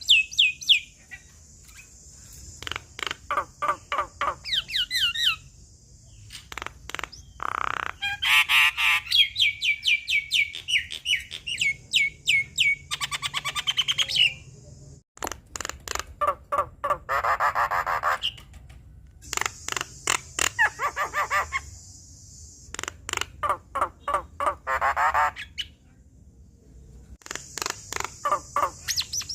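Javan myna singing a long varied song full of mimicked phrases: about six bursts of fast repeated notes, roughly four a second, mixed with rising and falling whistles, each burst a few seconds long with short pauses between.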